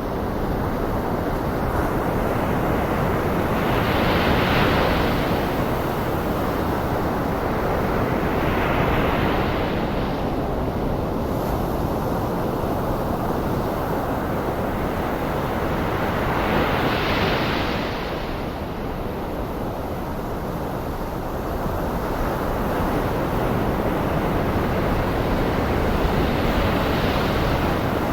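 Ocean surf breaking on a shore, blended with a steady bed of white noise. Waves swell and wash in about four times, a few seconds apart, over a continuous hiss.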